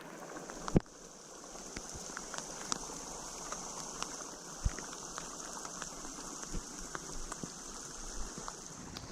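Steady rain falling, with scattered drops ticking close by. A single sharp knock comes a little under a second in.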